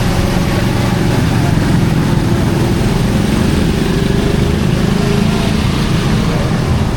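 A small engine running steadily, over an even haze of street noise.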